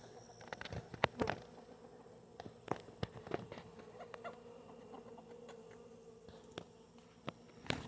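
Honeybees buzzing in flight as a steady hum: straggler bees from a freshly hived swarm looking for the way in to their queen. Scattered sharp clicks and taps sound over it, the loudest about a second in.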